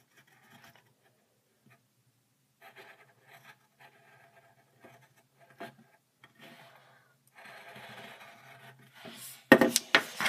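Drawing tool scratching across paper in short, intermittent strokes, denser toward the end, with a louder scratching burst near the end.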